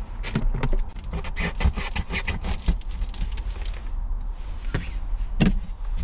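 Close handling noise: a quick run of small clicks, knocks and scrapes from objects being moved and fitted together, thinning out after about three seconds, with one louder knock near the end.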